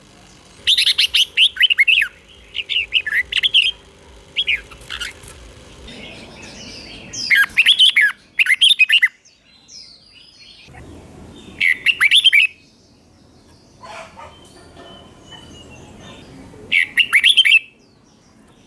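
Red-whiskered bulbul singing: several short phrases of quick, loud whistled notes, with pauses of a second or more between them.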